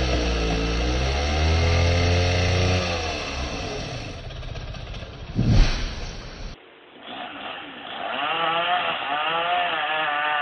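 Chainsaws running and revving up and down, with a loud thud about five and a half seconds in. After a brief drop, another chainsaw revs with a wavering pitch.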